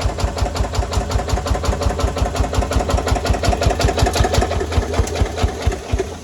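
Diesel engine of a Yanmar C10R-1 crawler carrier running steadily with an even, rhythmic beat, then shutting off near the end.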